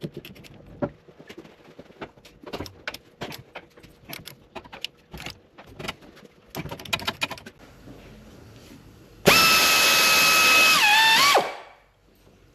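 Irregular metal clicks and clinks of tools on the cylinder head nuts, then a pneumatic air ratchet spinning a head nut off with a loud, steady whine and air hiss. The ratchet runs about two seconds, drops in pitch as it is let off, and stops.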